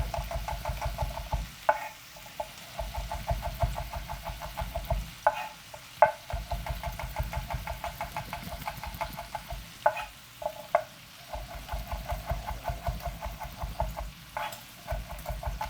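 Chef's knife slicing garlic cloves thinly on a cutting board: quick runs of rapid, even knife taps against the board, broken by short pauses.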